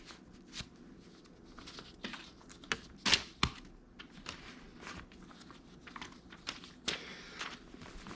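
Paper banknotes rustling and crinkling as they are handled and tossed, in scattered short crackles, the loudest a little after three seconds in.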